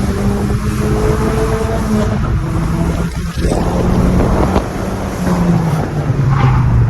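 Volkswagen Golf GTI engine pulling hard while the car is driven, its note holding and climbing slightly, cutting out briefly about three seconds in, then picking up again and falling lower near the end.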